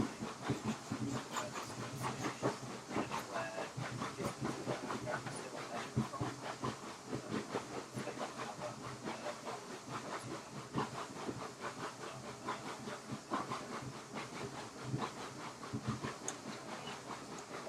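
Steam locomotive on a heritage train: a steady hiss of steam with irregular clanks and rattles.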